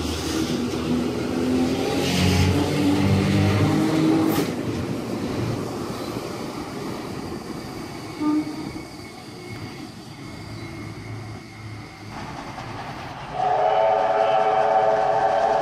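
A train running with a low rumble and hum that eases off after about four seconds. Near the end a train horn sounds loudly and is held.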